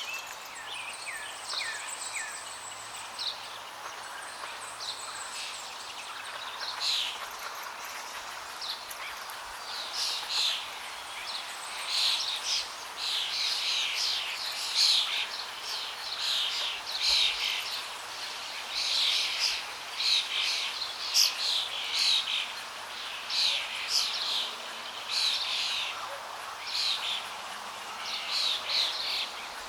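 Birds chirping and singing over the steady rush of flowing water. A few scattered calls at first, then from several seconds in a busy run of many short chirps.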